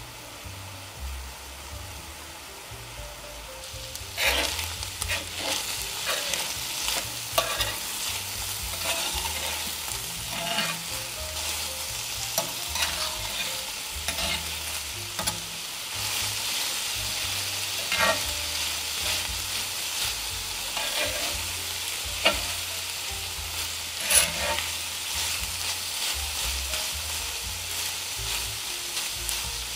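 Chopped meat frying and sizzling in a pan while a utensil stirs it, scraping against the pan now and then. The sizzle and stirring get louder about four seconds in.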